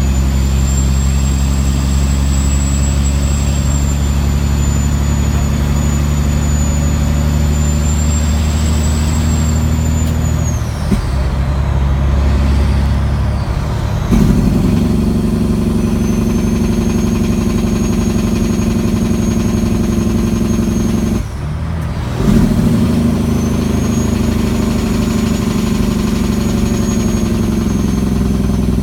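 Caterpillar C15 diesel in a Kenworth W900L pulling hard under heavy load, with a high, steady single-turbo whistle over the engine. Twice the whistle falls away and the engine note changes, about ten seconds in and again about twenty-one seconds in, then the whistle comes back as the engine pulls again.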